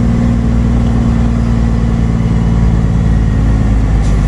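Diesel semi-truck engine pulling steadily under load, a deep even drone whose note shifts slightly about three seconds in.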